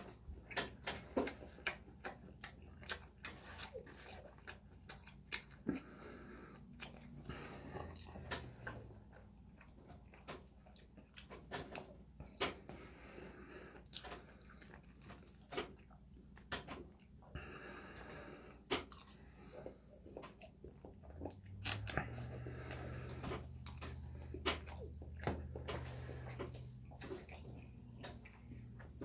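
Close mouth sounds of chewing loco moco and gravy fries, with frequent short clicks and taps of a plastic fork against a styrofoam takeout container. A low steady hum joins in about three quarters of the way through.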